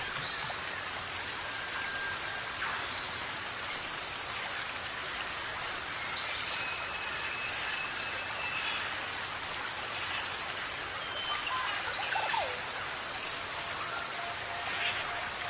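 Steady rain falling, an even hiss throughout, with birds calling over it in scattered short whistled notes, some held on one pitch and a few quick sliding calls.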